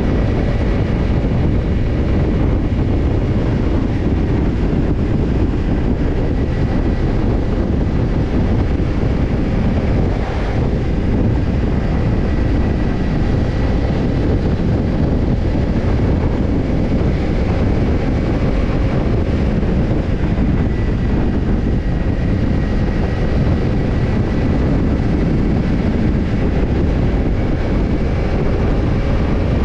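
Kawasaki Ninja 250 parallel-twin engine running steadily through a BEET NASSERT Evolution Type II titanium slip-on muffler as the bike cruises at an even pace, with wind noise on the microphone.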